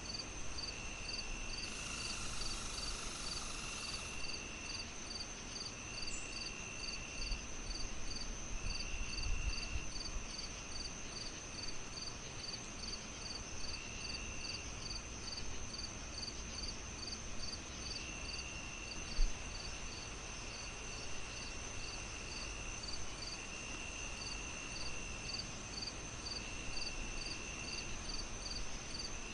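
Crickets chirping in a steady, even rhythm of about two chirps a second over a continuous high trill, with a lower trill cutting in and out every few seconds. Beneath them runs a soft fireplace hiss and crackle, with one sharp pop about two-thirds of the way through.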